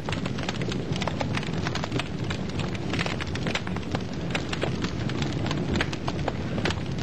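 Wood fire burning in a fireplace: dense, irregular crackles and pops over a steady low rumble of flames.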